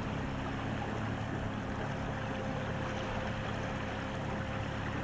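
A boat under way on the water: a steady wash of water and wind noise with a constant low hum underneath.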